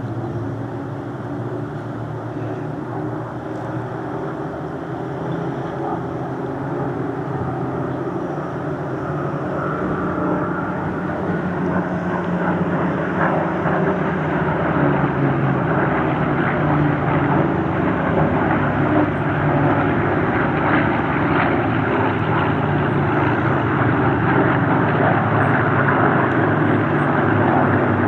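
Spitfires' V12 piston engines running in flight, a steady propeller-aircraft drone with several engine notes layered, growing gradually louder from about halfway through as the aircraft come closer.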